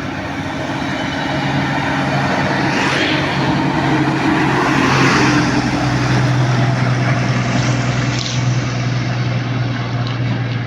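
Heavy truck's diesel engine running steadily, getting louder over the first few seconds and easing off slightly after the middle.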